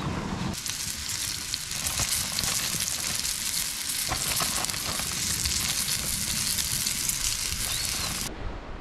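Seasoned snapper pieces frying in a pan of boiling oil, a steady sizzle with many small crackles and pops; it cuts off near the end.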